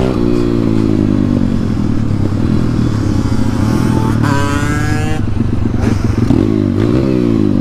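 Dirt bike engine running under way, revving up twice as it accelerates, with a sharp drop in revs in between at a gear change.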